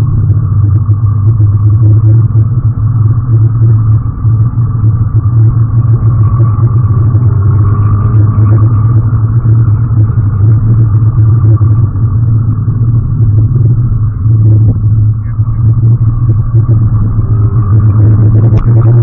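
Cabin sound of a 2013 Scion FR-S's 2.0-litre flat-four engine at speed on track, a heavy steady low drone mixed with road and wind noise, muffled and dull through a noise-reduced action camera. A short click near the end.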